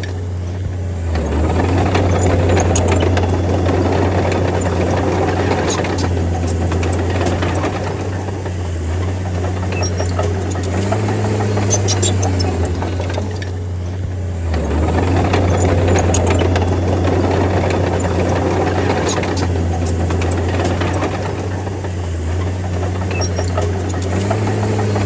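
Diesel engine of a D30 crawler bulldozer running hard, its note dropping and then rising again in a cycle that repeats about every 13 seconds, with scattered sharp metallic clicks over it.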